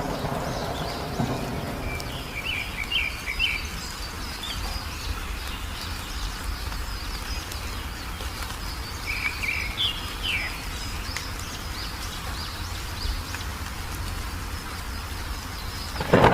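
Wild birds chirping in two short bursts, about two seconds in and again near ten seconds, over a faint continuous high-pitched trill and a steady low rumble.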